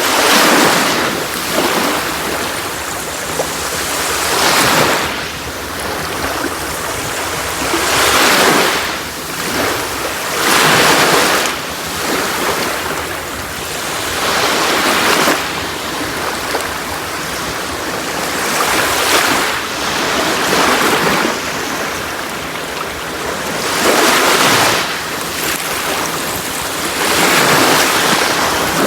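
Sea waves breaking and washing up a beach, a steady hiss of surf that swells with each wave every few seconds.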